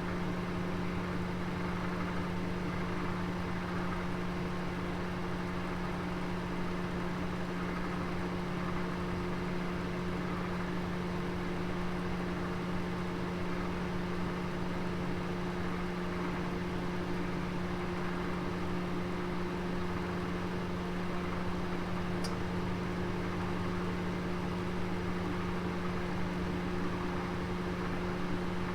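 Oven running with a roast inside: a steady electrical hum over an even hiss, with one faint tick near the end.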